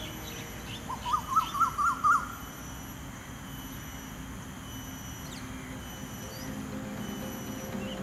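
A bird calling a quick run of seven or eight short rising chirps about a second in, with fainter high calls after. Steady faint tones sit under it.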